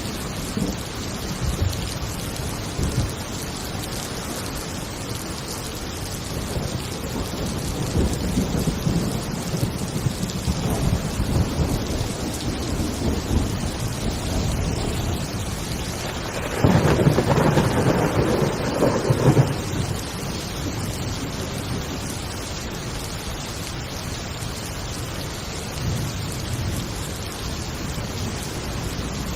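Heavy rain falling steadily, with rolls of thunder rumbling underneath and one louder, closer clap of thunder about two-thirds of the way through.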